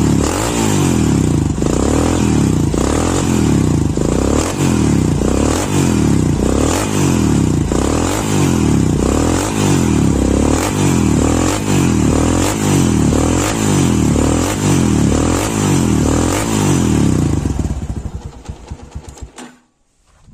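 Honda Tiger Revo's air-cooled single-cylinder engine, with a racing camshaft and a gutted, open exhaust, running with its revs rising and falling in a steady rhythm about every second and a half. Near the end it is switched off and sputters to a stop.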